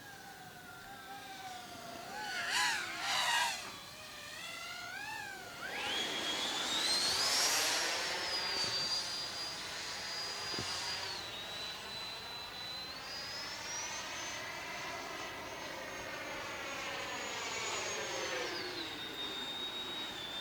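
Electric ducted fan of a Freewing J-10 RC jet (90 mm fan on 8S) whining in flight. The whine wavers at first, jumps sharply higher about six seconds in, then steps down and up between settings.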